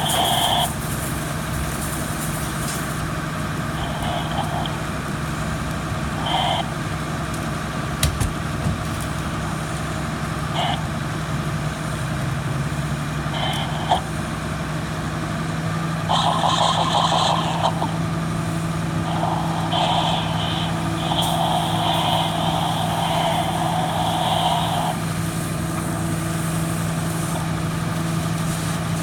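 Fire engine running steadily at the fire scene, its pump likely engaged for the charged bumper line. Short intermittent higher-pitched bursts come over the hum, most of them in the second half.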